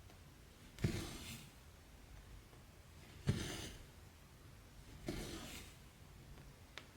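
Needle and embroidery thread drawn through stamped cross-stitch fabric: three short pulls about two seconds apart, each starting sharply and trailing off, with a faint click near the end.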